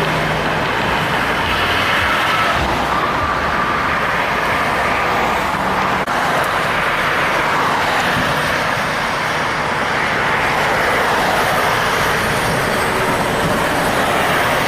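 Road traffic with heavy trucks passing: a continuous loud rush of engine and tyre noise.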